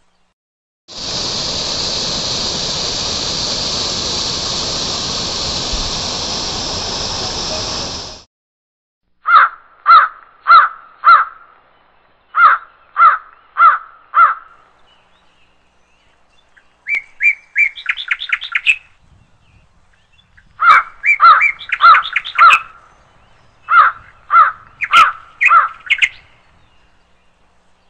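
A steady rushing noise for about seven seconds that cuts off abruptly. Then a bird gives short, loud calls in runs of four to six notes, five runs in all with pauses between them.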